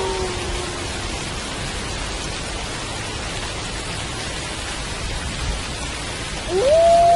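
Steady rain falling. The tail of a wolf howl slides down and fades at the start, and near the end a new howl rises sharply and holds a steady pitch.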